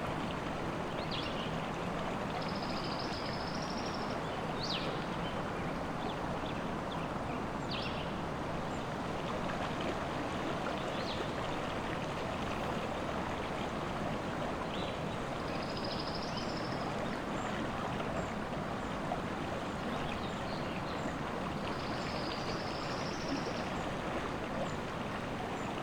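River water flowing in a steady rush, with birds singing over it: three short warbling phrases and scattered high chirps.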